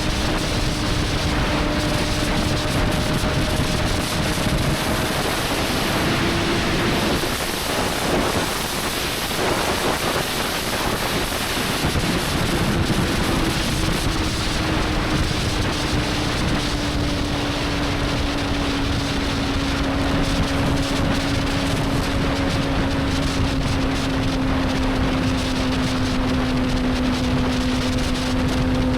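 Honda 600 cc inline-four motorcycle engine running at a steady cruise under heavy wind rush. The engine note fades for a few seconds about a third of the way in, then comes back and slowly falls in pitch as the bike eases off.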